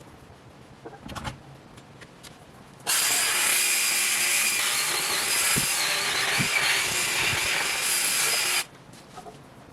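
A small motor-driven power tool runs steadily for about six seconds, starting and stopping abruptly, with a high wavering whine over a broad hiss. A faint click or two comes before it.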